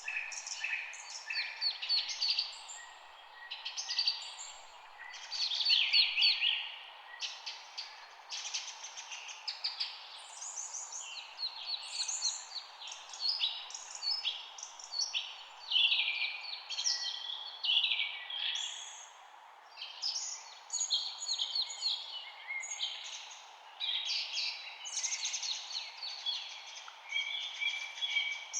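Several small songbirds chirping and singing at once, with quick overlapping chirps and trills that never stop, over a steady background hiss.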